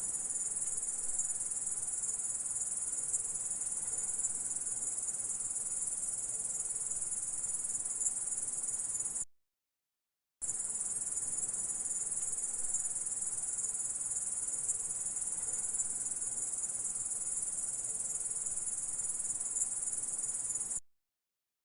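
Grasshopper stridulation: a dense, steady, high-pitched trill. It stops abruptly about nine seconds in, starts again a second later, and cuts off shortly before the end.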